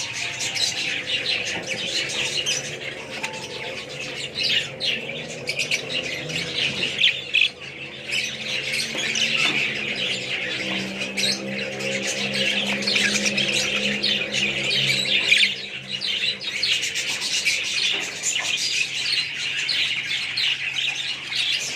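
A flock of budgies chattering continuously: a dense mix of chirps, warbles and squawks with no pauses. A lower, steady pitched drone sits underneath through the middle.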